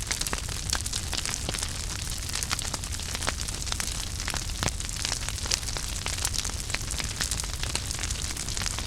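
Wood fire crackling: irregular sharp pops and snaps of burning logs over a steady low rumble of flames.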